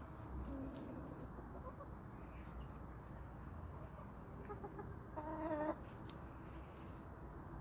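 Chickens clucking softly, with one louder, wavering call from a hen lasting about half a second, about five seconds in.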